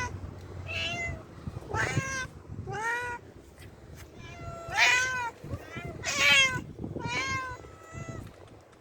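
Domestic cat meowing repeatedly, about seven separate meows each rising and falling in pitch, the loudest two around five and six seconds in.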